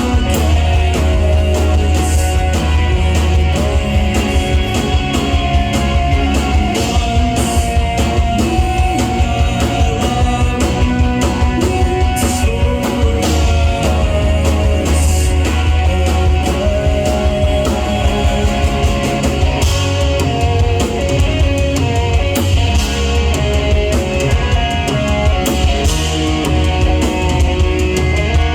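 Rock band playing live with no vocals: electric guitars, bass and drum kit with crashing cymbals, loud and steady.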